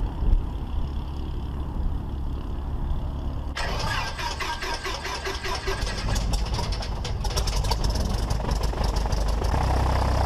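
Cessna 172's engine being started: a low cranking rumble, then the engine catches about three and a half seconds in and runs on with a busy, fast-firing sound, the low drone growing stronger near the end.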